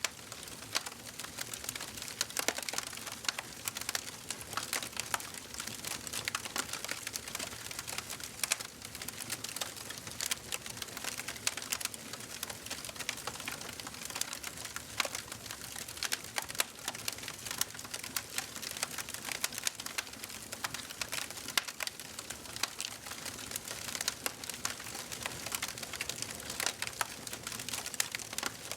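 Wood fire in a fireplace crackling steadily, with dense irregular pops and snaps over a soft hiss of burning.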